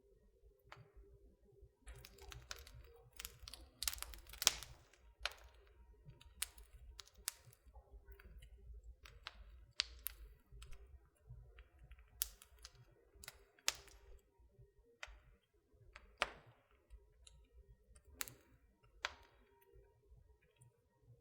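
Wood fire in a fireplace crackling: irregular sharp pops and snaps, sometimes several a second, over a faint low rumble, with the loudest pop about four and a half seconds in.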